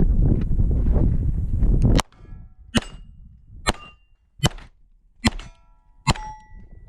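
Wind rumbling on the microphone, then, about two seconds in, six 9 mm pistol shots from a Beretta 92, evenly spaced a little under a second apart. Steel plate targets ring briefly after several of the shots.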